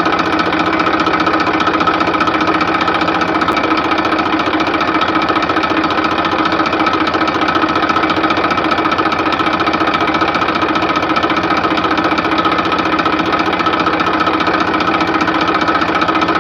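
A mini tractor's small engine running steadily, with a fast, even knocking rhythm and a constant hum.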